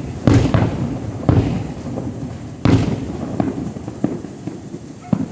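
Distant fireworks bursting: a string of booms, each with a rumbling echo, the loudest about a third of a second in and again near the three-second mark, with smaller cracks between.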